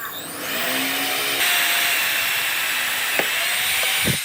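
A handheld power tool running steadily, a hissing noise with a high whine over it, cutting off near the end.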